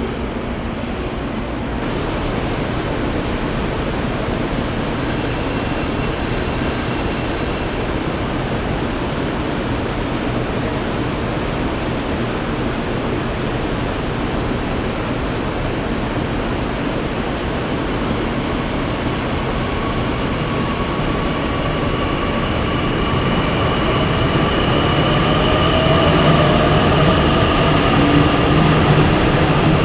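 Electric train at a station platform: a steady rumble of running gear, with a brief high-pitched ringing tone about five seconds in. In the second half, the traction motors' whine comes in as several tones rising gently in pitch while the sound grows louder.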